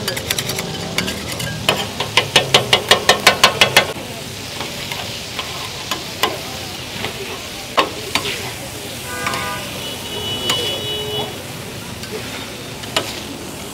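Food sizzling as it fries, with a metal utensil scraping and striking it. About two seconds in comes a quick run of a dozen sharp chops, about six a second, as the meat is worked and broken up, then occasional single knocks.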